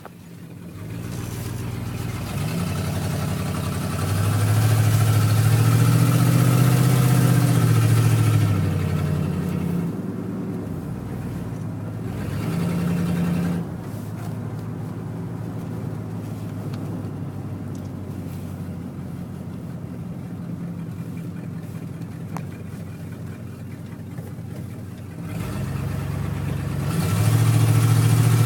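Ford Thunderbird's engine running as the car drives. It revs up strongly about four seconds in, eases off, settles to a steadier lower run for the middle stretch, then revs up again near the end.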